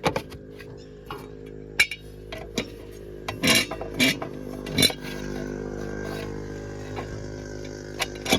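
JCB 3DX backhoe loader's diesel engine running steadily, with several sharp metallic clanks and knocks scattered over it from the bucket and loaded stone and mud.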